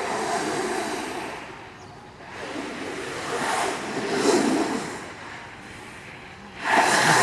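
Rushing hiss of a snowboard sliding down the slope. It swells and fades several times, then gets suddenly louder near the end.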